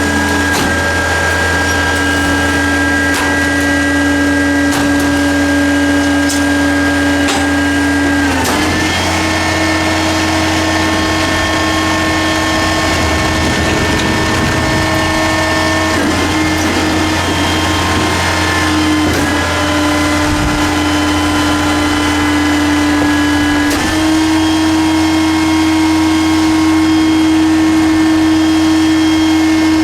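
Hydraulic pump whine from a 1995 Ford L8000 Loadmaster LM125 front-loading garbage truck, over the steady hum of its diesel engine. The whine holds steady pitches and steps up and down in pitch several times.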